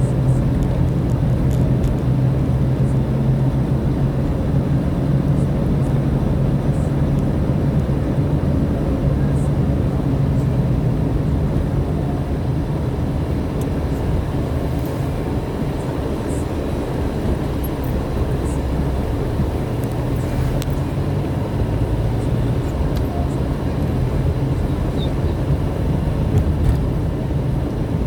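Car running steadily on the road, heard from inside the cabin: a low, even engine drone with tyre and road noise over it.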